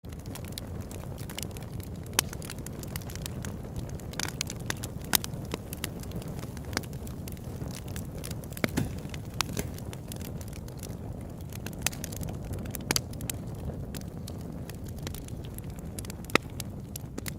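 Fire crackling: a steady low rumble with irregular sharp pops and snaps scattered throughout.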